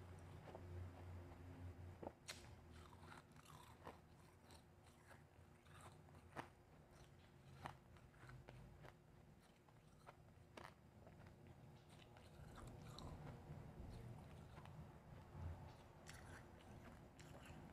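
Close-miked mouth crunching and chewing of refrozen, powdery blended ice. It is faint, with sharp crunches at irregular intervals a second or more apart.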